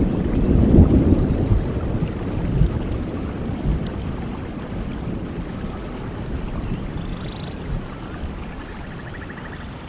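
Steady rain falling, under a low roll of thunder that is loudest at the start and fades away over several seconds.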